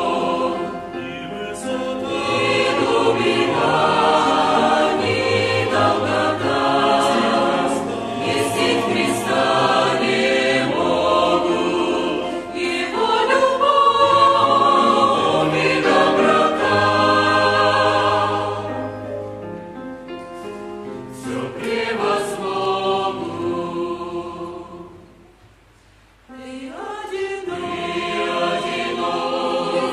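Church choir singing a hymn in several voices. The singing fades almost away about 25 seconds in, then comes back strongly a second or so later.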